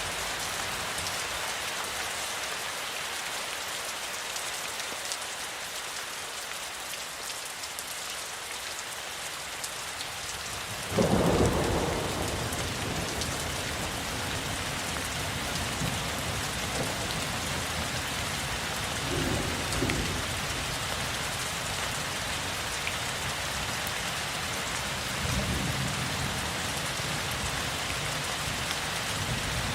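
Steady rainfall hissing, with a sudden loud thunderclap about a third of the way in that rolls off into a low rumble; two fainter rumbles of thunder follow later.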